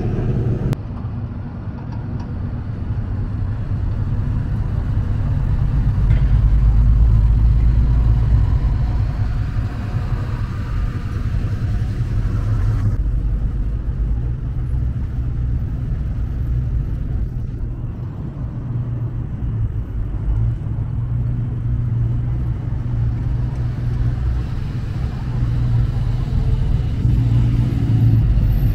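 Car engines rumbling low and steady as cars move slowly along the road, swelling louder a few times as they pass.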